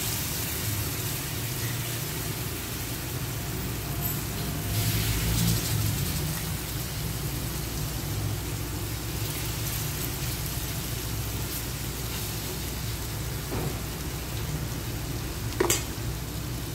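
Salmon fillets sizzling steadily in melted butter in a hot pan, the sizzle swelling briefly about five seconds in. A sharp tap sounds near the end.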